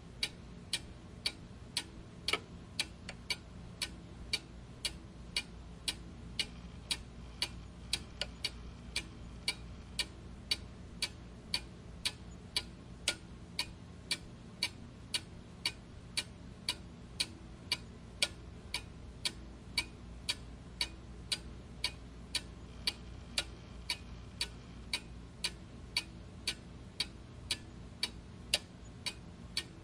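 Clock ticking steadily, evenly spaced ticks at about two a second, over a faint low hum.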